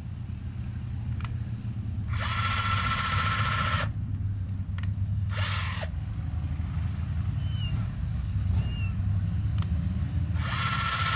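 Cordless drill running in three bursts as it drills and drives screws into soft wood boards: about two seconds, a short half-second burst, then another starting near the end. Each burst spins up and winds down. A steady low rumble runs underneath.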